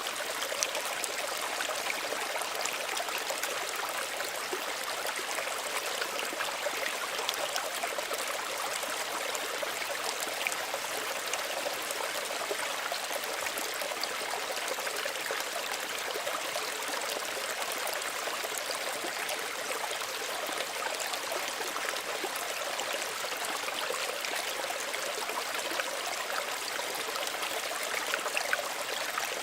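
Small stream running and trickling over stones, a steady babbling with fine splashing detail.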